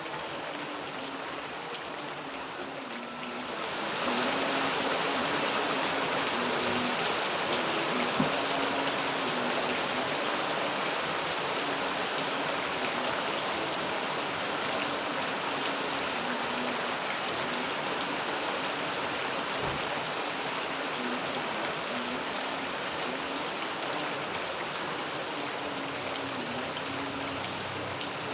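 Steady rain falling, growing heavier about four seconds in.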